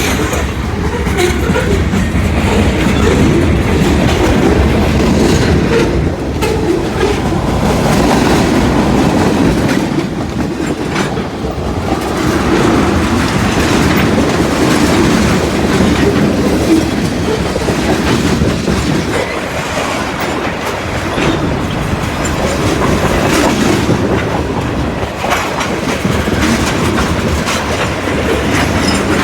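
Train cars rolling past, a steady rumble with wheels clicking over the rail joints throughout.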